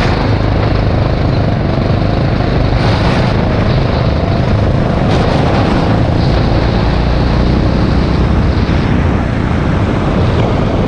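Rental go-kart engine running steadily at speed, with a few brief bursts of hiss.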